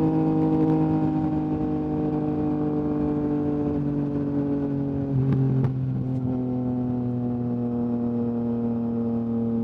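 Yamaha MT-09 three-cylinder engine running through an Akrapovic exhaust at a steady cruise; about halfway through its pitch steps down with a brief click, and it then runs on evenly at the lower note.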